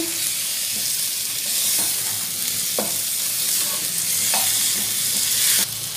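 Chicken pieces sizzling in hot oil in a nonstick wok while a spatula stirs and turns them, with a few light spatula scrapes against the pan.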